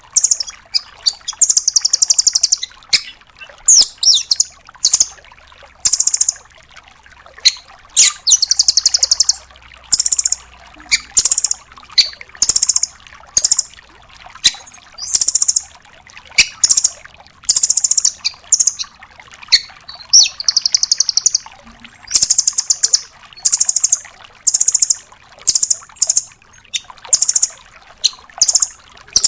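Velvet-fronted nuthatch calling in short, rapid, high-pitched trills, one burst roughly every second: the fast rattling 'tembakan' phrases that bird keepers use as tutor song.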